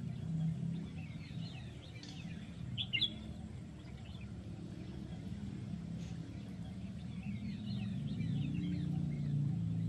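Wild songbirds chirping in quick, high twitters, a short burst about two to three seconds in and a busier flurry near the end, over a steady low rushing background.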